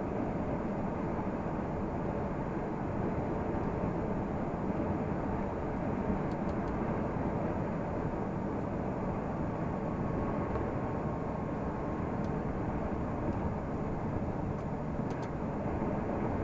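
Renault Magnum 480 truck's diesel engine running steadily under way, with road noise, at a constant speed. A few faint ticks about six, twelve and fifteen seconds in.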